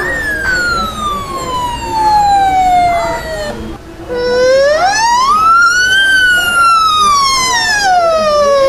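Siren-like wail: a high tone that rises and falls slowly, twice.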